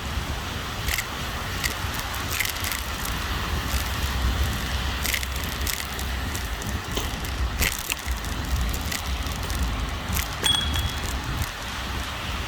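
Rented electric kick scooter rolling over a bumpy sidewalk, its frame rattling and clicking over the joints and bumps, over a steady low rumble of the ride.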